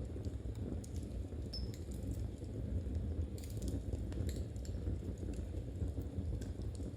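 Knitting needles clicking lightly and irregularly against each other as stitches are worked, over a steady low rumble.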